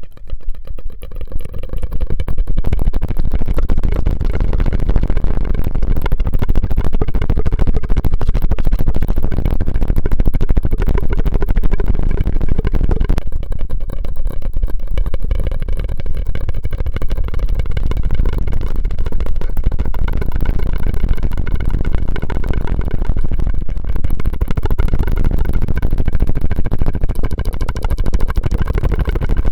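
Close-miked ASMR mouth and straw sounds: a dense, continuous crackle of tiny clicks that starts abruptly.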